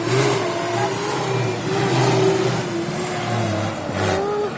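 Tatra Jamal Dakar race truck driving the trial course, its diesel engine running hard under load, the pitch rising and falling as the throttle is worked.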